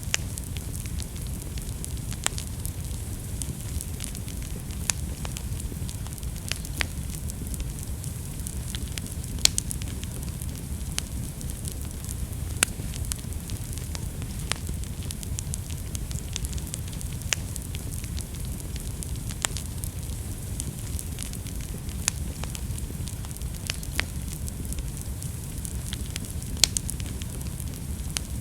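Wood fire burning in a fireplace: a steady low rumble of flames under irregular crackles and sharp pops, a few louder snaps among them.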